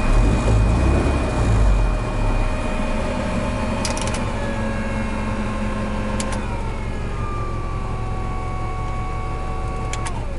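GAZelle cabin heater fan motor running steadily with a light whine over a low hum; a few sharp clicks about 4, 6 and 10 seconds in, each followed by the whine shifting down in pitch. The motor has just had its commutator cleaned and been lubricated, and runs much quieter.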